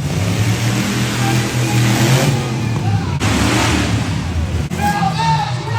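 Monster truck engine running hard and revving, with abrupt breaks a little over 3 seconds in and again near 5 seconds.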